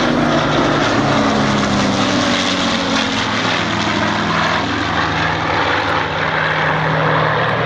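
Piston engines of a Lancaster bomber, Spitfire and Hurricane flying past together: a loud, steady propeller drone whose engine tones slowly shift in pitch.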